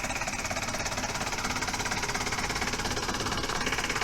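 An engine idling steadily, with an even, rapid pulsing rhythm.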